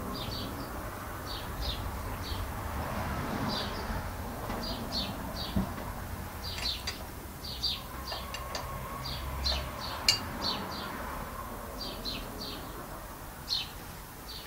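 Small birds chirping over and over in short, high chirps that come in quick little groups, over a low steady rumble. A single sharp click sounds about ten seconds in.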